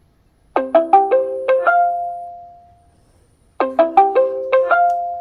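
Roomba i7+ robot vacuum's electronic chime: a quick tune of six plucked-sounding notes ending on a held tone that fades, played twice about three seconds apart.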